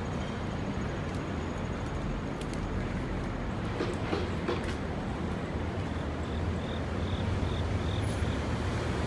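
Steady rumble of city street traffic with scattered clicks and knocks. Partway through comes a faint run of short, evenly spaced beeps, about two or three a second.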